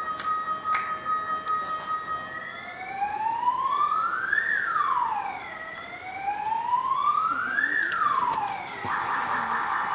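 Emergency vehicle siren: a steady tone, then two slow rising-and-falling wails, switching to a fast yelp near the end.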